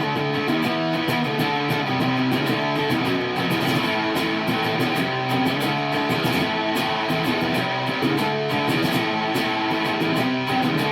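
Electric guitar played through a vintage Sola Sound Jumbo Tone Bender silicon fuzz pedal, with picked chords and notes ringing on continuously. The guitar's volume is rolled back so the fuzz cleans up to a trashy, gritty tone.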